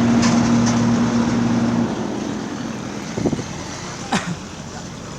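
An engine running at a steady pitch that cuts off abruptly about two seconds in, leaving quieter outdoor background noise with two short sounds near the end.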